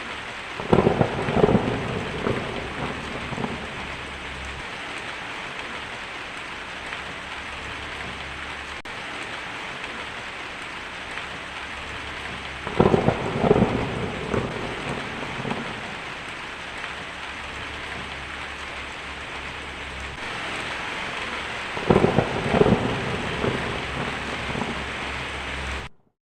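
Thunderstorm: steady heavy rain with three peals of thunder, about a second in, about 13 seconds in and about 22 seconds in, each cracking loudly and then rumbling away over a few seconds. The sound cuts off suddenly near the end.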